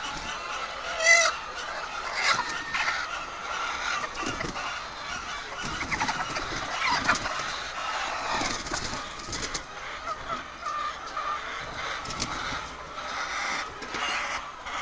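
Many hens clucking and squawking together in a poultry house, a dense chorus of short calls with a sharp louder squawk about a second in.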